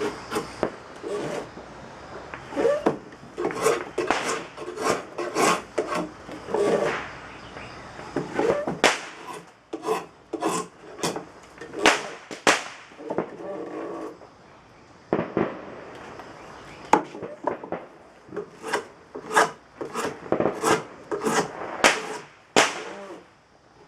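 Draw knife shaving green black locust wood: a long run of quick, sharp scraping strokes as shavings peel off the handle blank, broken by a couple of brief pauses.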